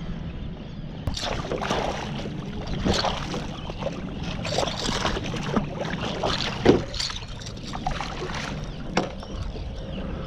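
Water splashing and sloshing around a kayak in irregular strokes over a steady low rumble, with one louder splash about two-thirds of the way through.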